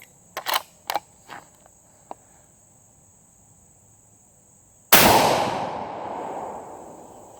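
A few light clicks, then a single Arisaka rifle shot about five seconds in, its report dying away slowly over a couple of seconds.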